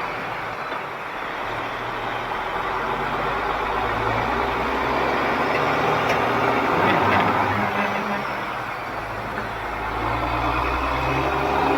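Heavy diesel truck engine running under a steady rushing noise, its low hum shifting slowly up and down in pitch.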